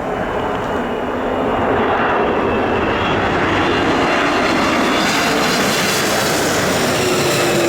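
Jet airliner passing close by. The engine noise builds over the first two seconds and then stays loud, with a faint whine sliding slightly down in pitch in the second half.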